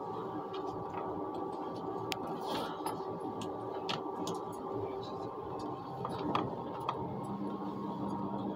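Running noise inside an ICE high-speed train cabin at speed: a steady rush with several held hums, and light clicks and ticks scattered throughout. A lower hum joins about seven seconds in.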